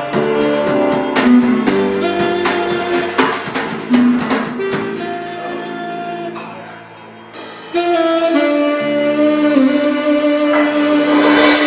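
Live band playing a jazz tune: held notes from a melody instrument over a drum kit. The music thins out and quietens about six seconds in, then comes back with a loud held chord just before eight seconds.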